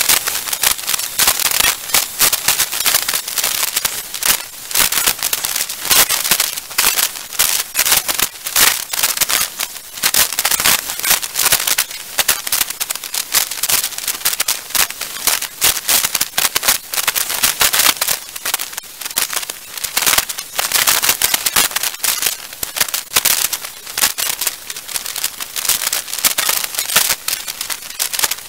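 Hurricane rain and wind battering a security camera's housing and microphone: a loud, dense crackle of irregular clicks, surging and easing every few seconds.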